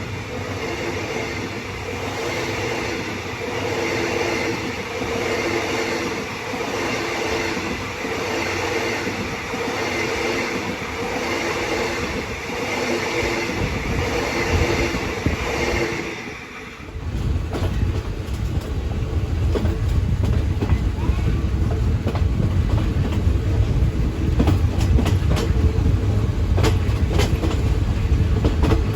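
Passenger train running along the track, heard from on board: steady wheel-and-rail noise with a regular beat about every second and a half. About two-thirds of the way through, the sound dips briefly and then becomes a louder, deeper rumble with frequent sharp clicks of wheels over the rails.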